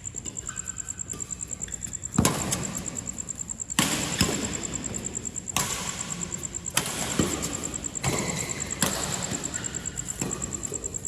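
A rally of sharp hits of a ball being struck back and forth, about one every second or so, each with a short echo. A steady high-pitched whine pulses rapidly underneath.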